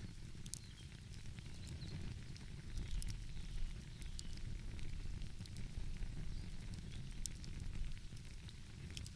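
Wood fire crackling, with scattered sharp pops and snaps at irregular moments over a steady low rumble.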